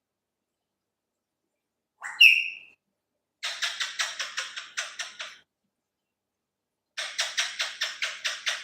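Pet parrot calling: a short whistled note about two seconds in, the loudest sound, then two runs of rapid harsh chattering calls, about five a second, each lasting around two seconds.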